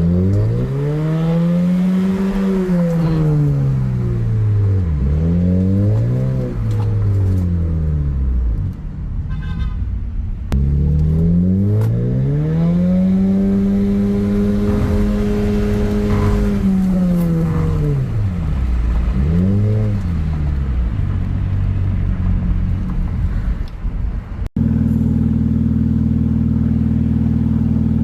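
Honda Accord G9's engine revved through an aftermarket Euro Arts exhaust with carbon tips, built for a supercar-style sound. It goes through several quick revs up and down, one long rev held high in the middle, and a few more blips. Near the end it changes abruptly to a steady, even drone.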